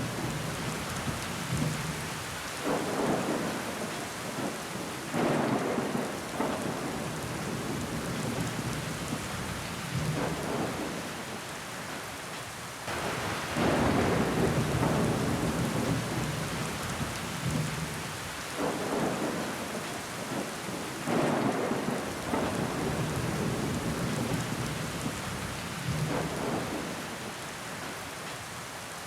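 Steady rain falling on window glass, with water running down the pane. It swells and eases in waves every few seconds.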